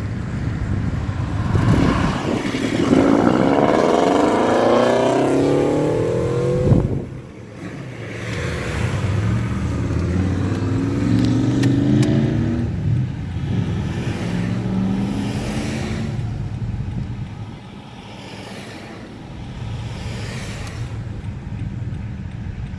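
Car engine revving, its pitch rising for a few seconds, with a sharp knock about seven seconds in, then running on with a note that shifts up and down.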